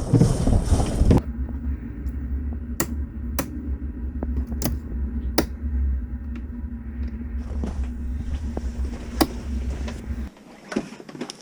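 A burst of wind rushing on the microphone, then a sudden change to a steady low rumble with a faint hum, broken by several sharp clicks or knocks; the rumble stops suddenly about ten seconds in.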